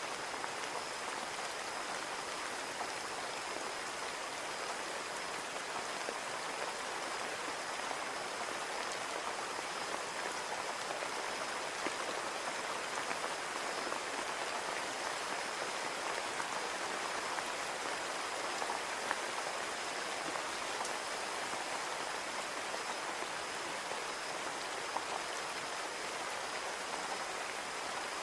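Steady rain falling on a window pane, an even wash of noise with fine, scattered drop ticks.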